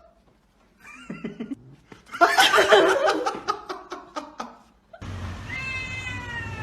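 A loud stretch of rapid, pulsing sound in the middle, then a cat's long, wavering meow starting about five seconds in.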